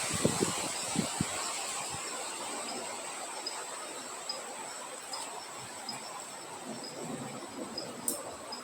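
Night insects: a steady high-pitched drone with crickets chirping about twice a second, over a soft windy hiss. There are a few low thumps in the first second or so.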